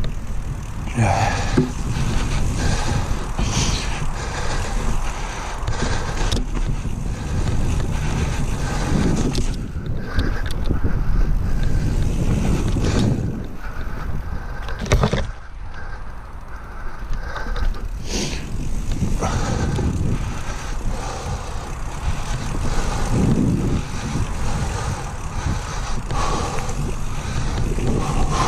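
Whyte 901 mountain bike being ridden along a dirt trail: steady rumble of the tyres rolling, with occasional knocks and rattles from the bike and wind on the microphone.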